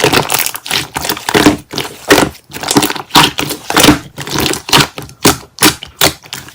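Slime being squished and stretched by hand, making loud crackling pops and clicks, several a second in an uneven run.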